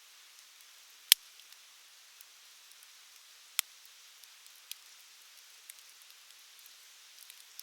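Wood fire crackling: scattered sharp pops and small ticks over a steady hiss, the loudest pop about a second in and a few more through the middle.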